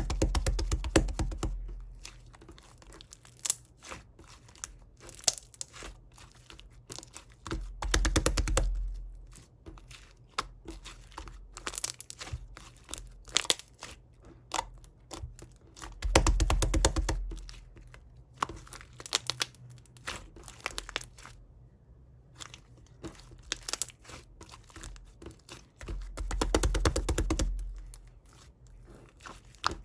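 Crinkling and crackling of thin crinkly material being handled, many small clicks throughout, with four louder bursts of handling noise.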